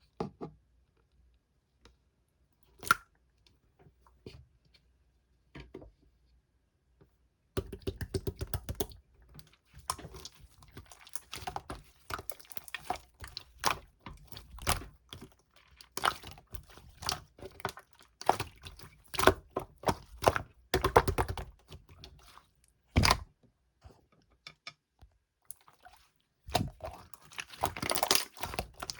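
Slime being squeezed and pressed by hand, giving sticky clicks and pops: a few separate ones at first, then from about a third of the way in dense runs of rapid crackling clicks.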